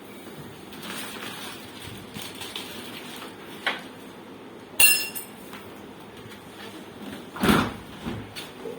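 Handling noises: a light click, then a sharp metallic clink that rings briefly, and a duller, heavier knock near the end, over a faint steady hum.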